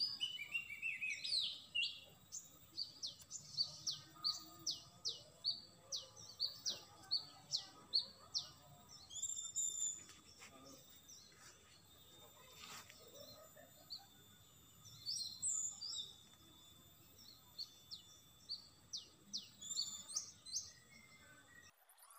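A small bird chirping repeatedly: short, sharp, high notes that each drop in pitch, about two a second, in runs with short pauses between.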